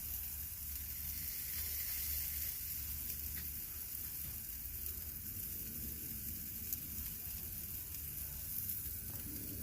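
Chicken breasts sizzling steadily on a hot grill grate, with a low steady rumble underneath.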